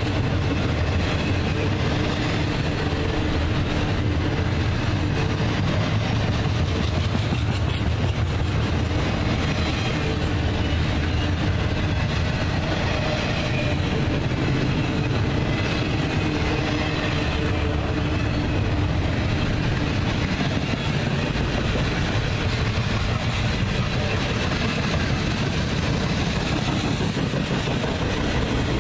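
Intermodal freight train's double-stack well cars and trailer cars rolling past close by: a steady rumble of steel wheels on rail.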